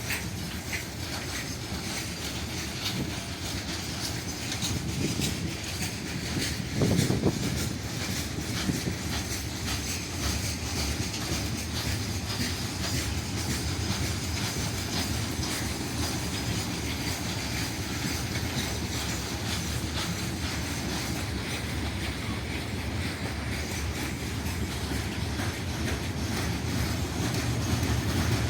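Freight train running past, wheels clacking steadily over the rail joints. There is a louder knock about seven seconds in, and the noise builds toward the end.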